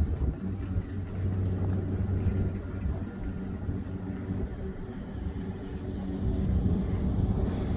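A steady low engine drone with a hum, with no clear rise or fall.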